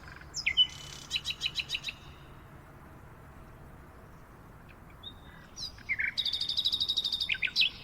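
Birds singing: a phrase of a few sliding whistled notes followed by a short run of repeated notes about half a second in, and a second phrase with a fast, even trill from about six seconds in, over a faint steady hiss.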